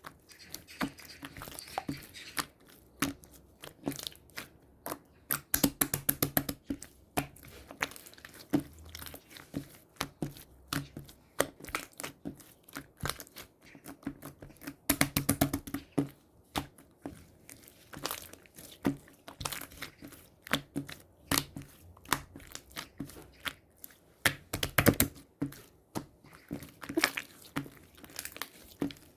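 Close-up handling sounds: irregular taps and clicks, with three bursts of rapid clicking or crinkling, about six, fifteen and twenty-five seconds in.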